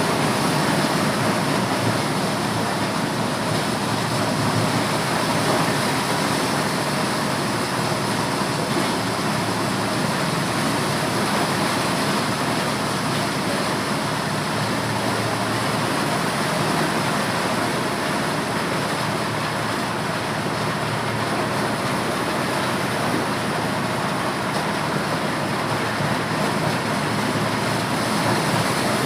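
Motorised corn sheller running steadily: a loud, even, dense mechanical din with no pauses.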